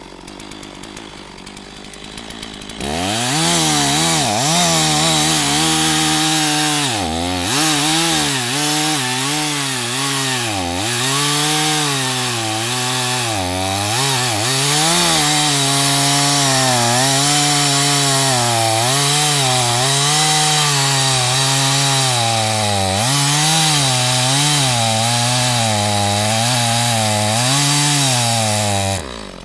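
Stihl MS460 two-stroke chainsaw opened up to full throttle about three seconds in and cutting into a large firewood round. Its pitch dips and recovers over and over as the chain bites under load, and it drops back off the throttle near the end.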